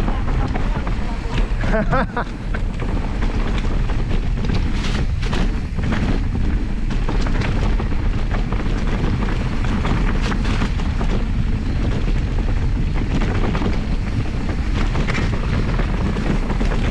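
Loud, steady wind buffeting the microphone while riding a mountain bike, with scattered knocks and rattles from the bike over the trail. It starts suddenly.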